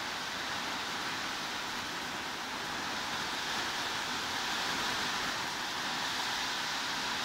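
Steady heavy rain, an even hiss with no separate drops or other sounds standing out.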